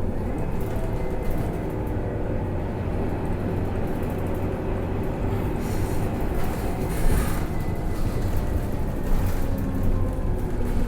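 Scania K310UA articulated bus heard from on board, its engine running steadily with road and cabin noise as the bus drives along.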